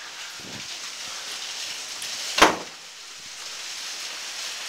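Heavy rain and hail falling in a steady hiss, with one sharp, loud impact about two and a half seconds in.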